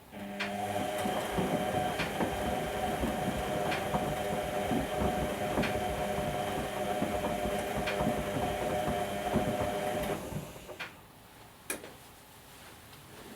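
Whirlpool washing machine's motor turning the drum with a steady whine and light knocks about every two seconds, stopping about ten seconds in, followed by a few soft ticks.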